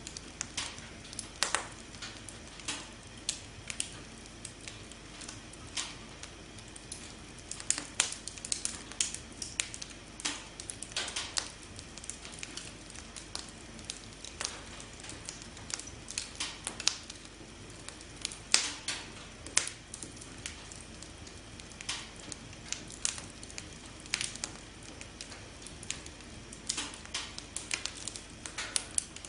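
Campfire burning: irregular crackles and sharp pops of burning wood over a soft steady hiss, with a few louder pops.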